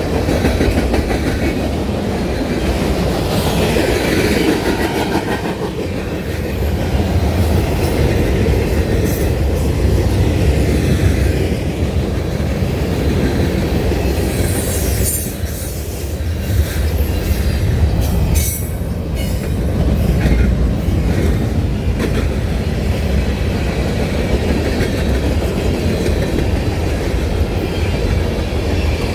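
Railroad cars of a passing train rolling over the rails in a steady rumble with wheel clatter, and brief high-pitched wheel squeals a little past the middle.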